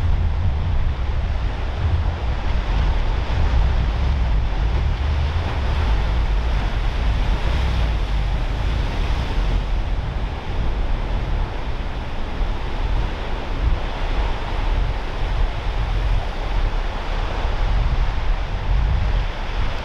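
Wind buffeting the microphone with a heavy, uneven low rumble, over a steady hiss of ocean surf.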